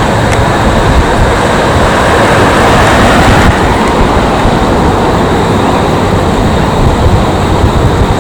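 Boeing 787-9 jet airliner's engines roaring: a loud, steady rush of noise with a heavy low rumble, the higher hiss easing slightly about three and a half seconds in.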